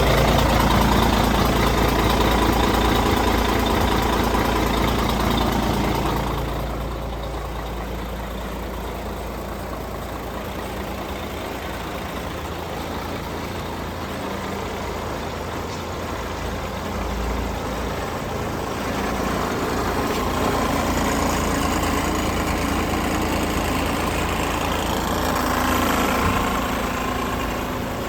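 MAN TGA 18.410 truck's diesel engine idling steadily. The sound drops noticeably about six seconds in and grows louder again in the last third.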